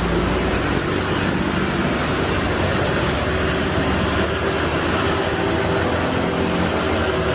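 A steady mechanical drone with a low, even hum, like a motor or engine running, holding level throughout.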